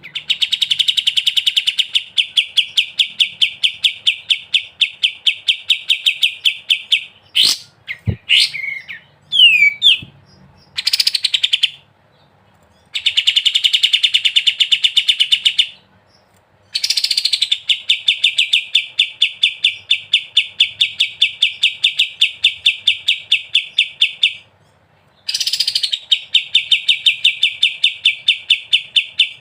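Kapas tembak songbird singing its fast, rattling 'ngebren' trill: long runs of rapid, evenly repeated high notes lasting several seconds each, broken by short pauses and a few brief sharp calls in the middle.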